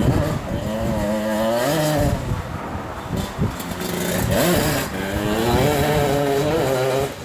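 Honda CR80 two-stroke single-cylinder engine in an ATC70 trike, revving: the pitch climbs, drops back around the middle, then climbs again and holds before cutting off abruptly.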